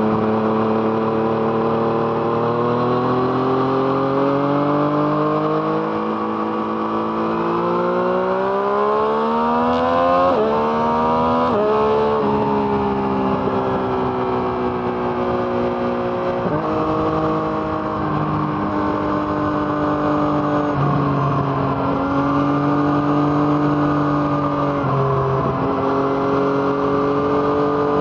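2017 Yamaha MT-09's three-cylinder engine through an Arrow Thunder exhaust, heard from the rider's seat while riding. It pulls up steadily in pitch for about ten seconds, with two quick upshifts about ten and twelve seconds in, then settles with the pitch easing and stepping a few more times as the throttle changes.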